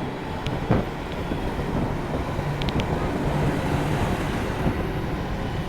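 Steady road and vehicle noise with wind on the microphone while riding a motorcycle in traffic, with a short knock a little under a second in.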